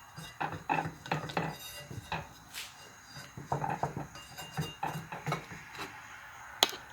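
A spatula scraping and tapping against a dish in a string of small, irregular clicks and scrapes as a soft rice-noodle sheet is worked loose and rolled up on it, with a sharper click near the end.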